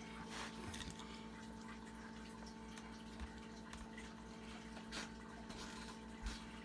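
Quiet room tone: a steady low electrical hum with a few faint ticks.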